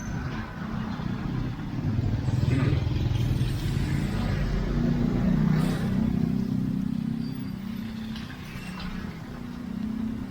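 Motor vehicle engine running with road noise, swelling from about two seconds in and easing off again after about six seconds.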